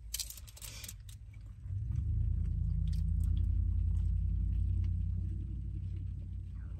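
Chewing with a few crunches, then a low rumble of a vehicle going past. It swells about two seconds in and fades away near the end.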